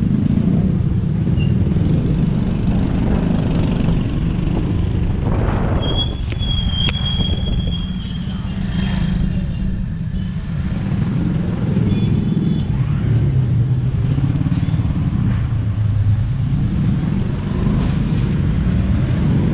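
Busy street traffic: motorcycles and cars running and passing, a steady low engine rumble throughout, with a brief high-pitched squeal about six seconds in.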